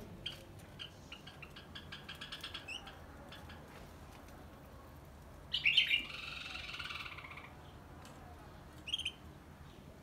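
Aviary birds calling: quick runs of chirps over the first few seconds, then a louder, harsher call about halfway through that lasts around two seconds, and a short chirp near the end.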